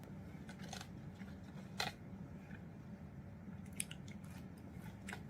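Quiet close-up eating sounds: soft chewing with a few sharp mouth clicks, the sharpest a little under two seconds in, as grilled tomato is eaten, over a low steady hum.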